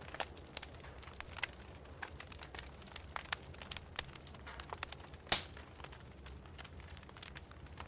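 Wood fire crackling in a fireplace, with irregular sharp pops and one loud pop about five seconds in.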